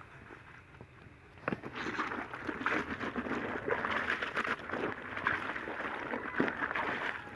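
Clothes being washed by hand in a bowl of soapy water: water sloshing and splashing as the fabric is worked, starting about a second and a half in and going on irregularly.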